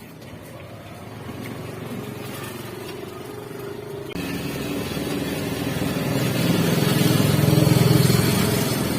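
A passing motor vehicle's engine running, growing louder over several seconds with a sudden jump about four seconds in and peaking near the end.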